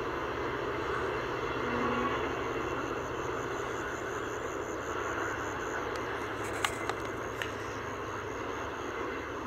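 Passenger train running away into the distance, a steady rumble of wheels on the track, with three sharp clicks about two-thirds of the way through.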